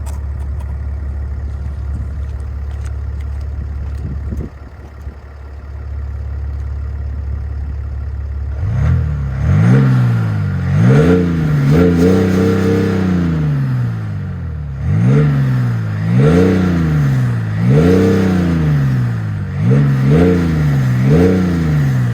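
A BMW X6 3.0d's three-litre straight-six turbodiesel, heard through its factory active exhaust. It idles steadily, then from about nine seconds in is blipped about eight times, each rev rising and falling in pitch.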